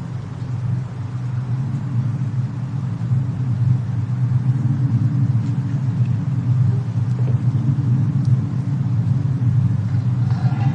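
Steady low rumble of a snowstorm-and-fireplace ambience bed, with faint hiss above and a few faint crackles. It fades in over the first second or two.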